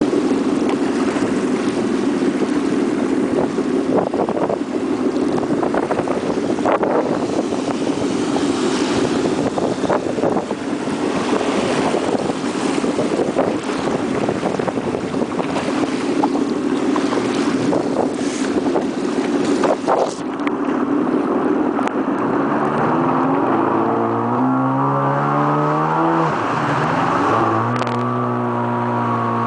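Jet ski engine running at speed under wind and water noise, with repeated short thumps. About twenty seconds in, the rushing noise falls away and the engine's pitch rises and falls as the throttle changes.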